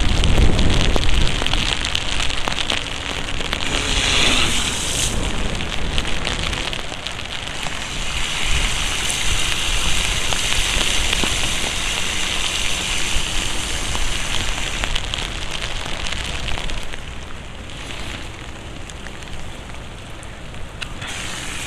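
Steady rain, with many small drops ticking close on the microphone over a continuous hiss of water. It is loudest in the middle and eases off somewhat near the end.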